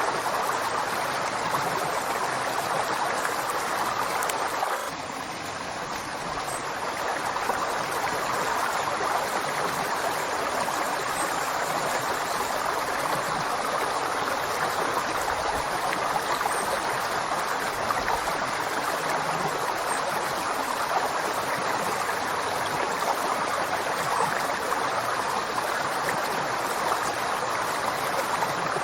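River water flowing, a steady rushing with no breaks, dipping briefly in loudness about five seconds in before returning to full strength.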